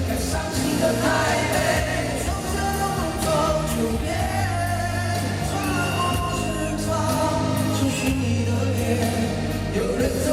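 Live band music with singing voices over a steady bass line, recorded in a concert hall.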